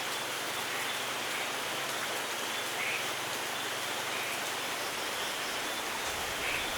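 Steady light rain falling, an even hiss, with a few faint bird chirps scattered through it. A faint low rumble of thunder creeps in near the end.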